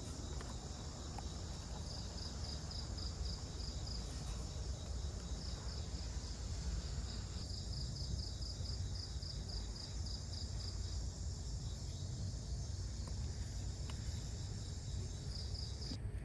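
Night insects chirping: a steady high-pitched drone with rapid, pulsing trills coming in runs of several seconds, over a low rumble. The high drone cuts off suddenly right at the end.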